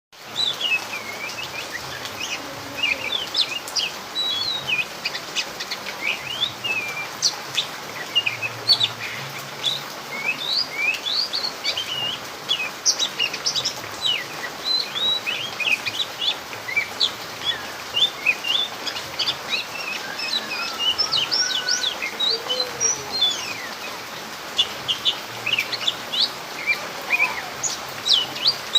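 Oriental magpie-robin (kacer) singing: a long, varied run of quick whistled chirps and sweeping notes, over the steady hiss of falling rain.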